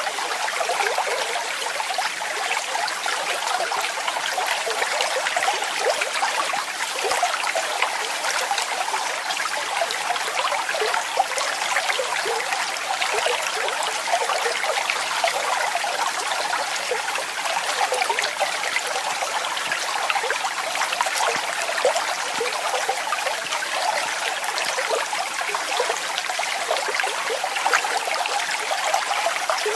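Falling water splashing and trickling steadily, high and hissy with little low rumble.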